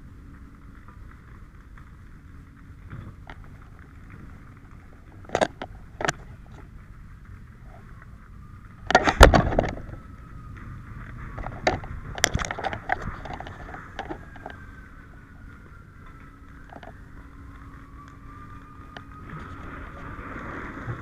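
Shed fire burning with a steady hiss, broken by several sharp pops and bangs, the loudest about nine seconds in.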